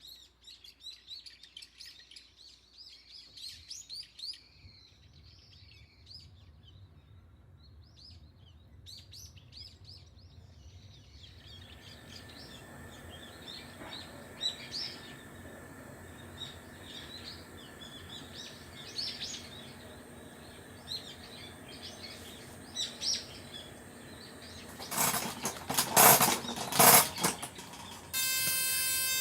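Small birds chirping and twittering throughout. A steadier background noise with scattered sharp clicks sets in about twelve seconds in. A few loud noisy bursts come near the end, and just before the end a steady, sustained tone begins.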